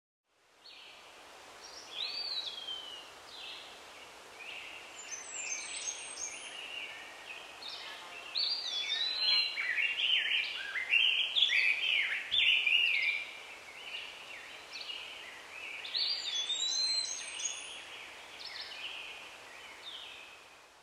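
Songbirds chirping and whistling, many short calls overlapping, over a faint steady outdoor hiss. It fades in just after the start and tapers off near the end.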